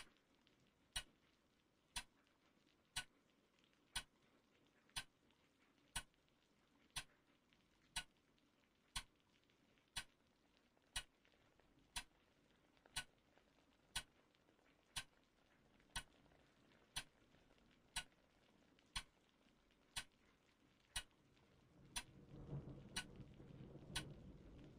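Clock ticking steadily, one sharp tick a second, over a faint room hush. Near the end a low rumble swells up underneath the ticking.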